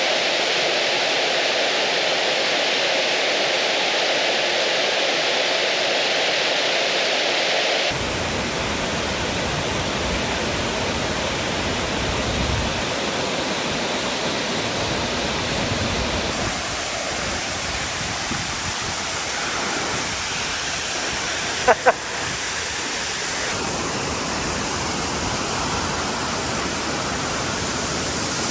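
Steady rush of falling water from a waterfall, a constant even noise that changes character abruptly about eight seconds in and again later on. A brief sharp sound cuts through once, about two-thirds of the way in.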